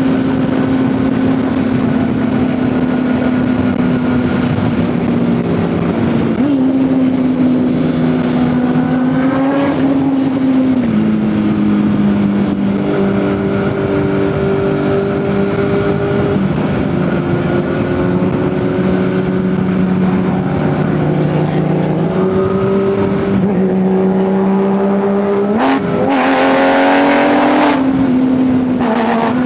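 Kawasaki ZX-10R superbike's inline-four engine running at a steady cruise, its pitch stepping down about a third of the way in and holding low, then rising sharply in a short hard rev near the end.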